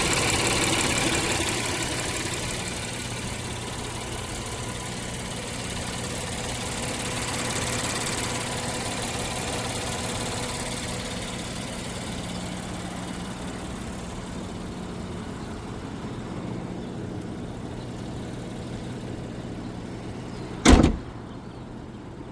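2019 Acura MDX V6 engine idling steadily, with the running noise that appeared after its crankshaft was replaced under a recall. The higher-pitched part of the sound fades over the first half. Near the end comes a single loud thump.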